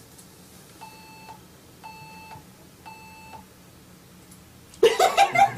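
Three short electronic beeps, evenly spaced about a second apart, all at the same pitch. Near the end a burst of voices and laughter breaks in.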